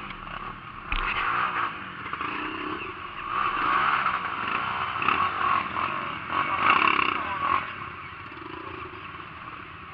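Trail motorcycle engine running, growing louder in the middle and easing off toward the end.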